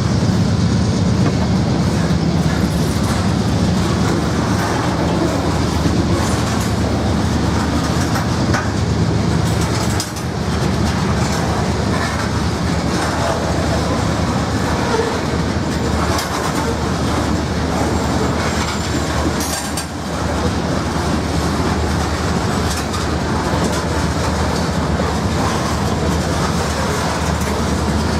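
Norfolk Southern freight train rolling past, a loud, steady rumble of wheels on rail that goes on the whole time, with a deeper engine-like drone strongest in the first ten seconds.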